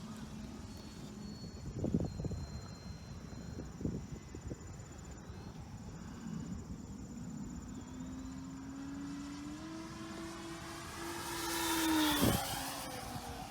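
Electric RC plane's brushless motor and propeller (E-flite Power 90) whining past in a low flyby: the tone climbs and grows louder as it approaches, then drops sharply in pitch as it passes about twelve seconds in.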